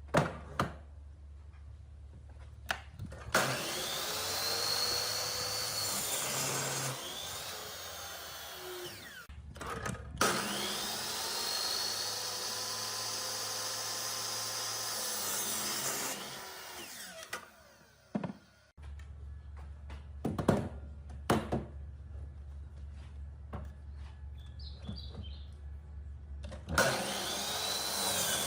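A handheld electric power tool on wood: its motor starts, speeds up, runs for several seconds and winds down, three times over. Sharp knocks fall between the runs.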